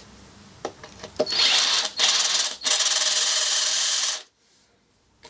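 Handheld power tool running at high speed in two bursts, about a second and a second and a half long with a momentary stop between, then cutting off sharply. A few light knocks come before it starts.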